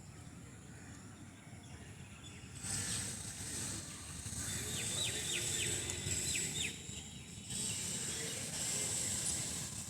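Birds calling outdoors: a high, thin chirring comes and goes, with a quick run of about six short repeated notes around the middle, over a steady low rumble of background noise.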